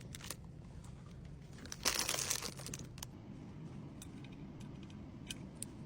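Packaging crinkling briefly about two seconds in, with a few light clicks and taps as small items are handled during order packing.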